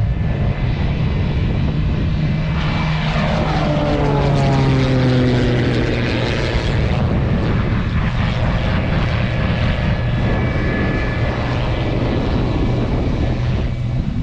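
Propeller-driven aerobatic stunt plane flying past, its engine drone dropping in pitch as it passes, about three to five seconds in, then running on steadily.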